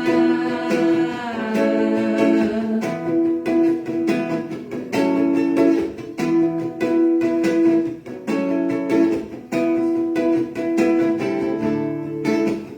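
Acoustic string instrument strummed in a steady rhythm of chords, an instrumental break between sung lines. A held sung note rings on in the first second or so.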